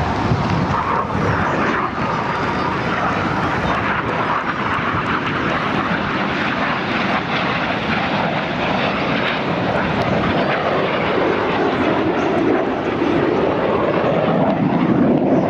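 BAE Hawk T1 jet trainers, each with a Rolls-Royce Turbomeca Adour turbofan, flying a display pass: a loud, continuous jet-engine noise that swells slightly near the end.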